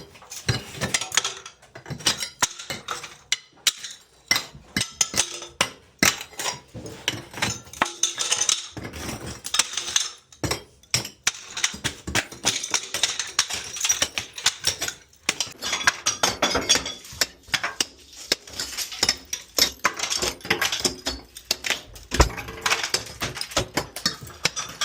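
Dense, irregular clinking and clattering of hard, brittle pieces: broken ceramic tile and debris being knocked loose and scraped during bathroom demolition.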